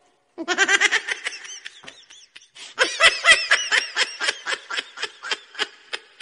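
High-pitched laughter, a rapid run of 'ha-ha' pulses, with a second, louder burst starting about two and a half seconds in at roughly four laughs a second.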